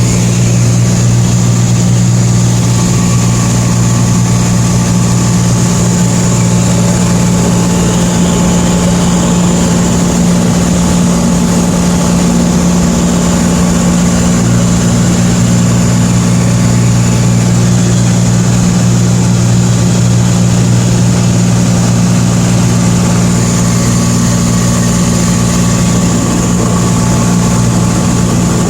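Aircraft piston engine and propeller droning steadily at constant power, with an even low hum and its overtones.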